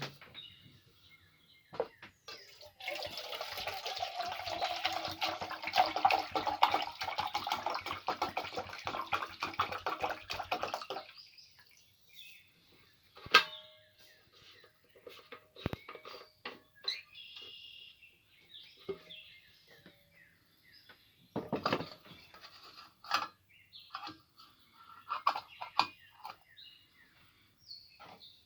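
Water pouring steadily into a pot for about eight seconds, then stops. After it come scattered light clinks and knocks.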